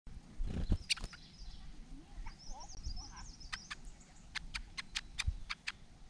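Small birds calling: a faint high warbling phrase from about two and a half seconds in, then a run of about ten sharp ticking call notes over the last two and a half seconds. A low thump and rustle comes in the first second.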